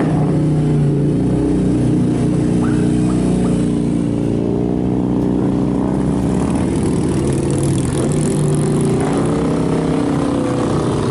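A motor vehicle engine running steadily, with a low rumble and a steady hum: a dubbed-in engine sound effect.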